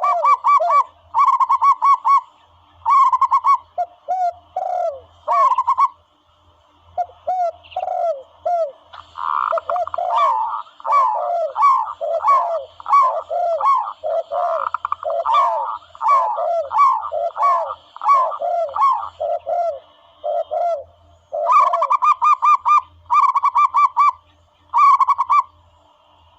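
Recorded dove calls played as a hunting lure: phrases of rapid, staccato cooing notes repeated in bursts, a higher and a lower voice overlapping, busiest through the middle.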